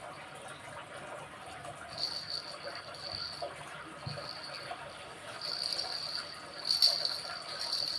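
A baby's sound-making toy giving off a high-pitched tone in three stretches, starting about two seconds in, the last one longest and loudest.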